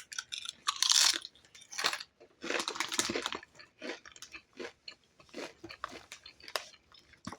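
Close-up crunching and chewing of Doritos tortilla chips, an irregular run of crunches that is loudest in the first three seconds and grows fainter.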